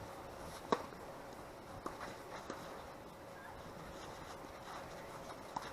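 A few sharp, short knocks of a tennis ball being struck and bouncing, the loudest about a second in, over a faint steady wind hiss.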